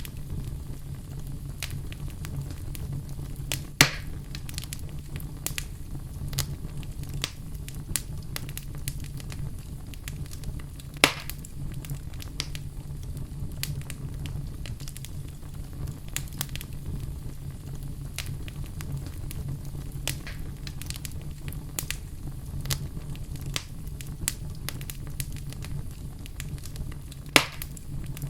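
Wood fire burning in a fireplace: a steady low rumble of flames with frequent small crackles and three louder sharp pops, about 4, 11 and 27 seconds in.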